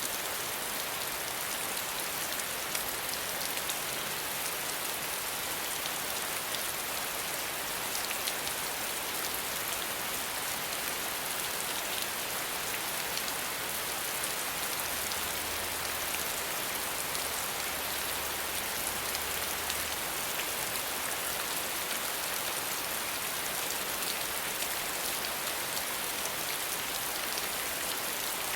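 Steady rain falling, with a close patter of individual raindrops ticking on a surface.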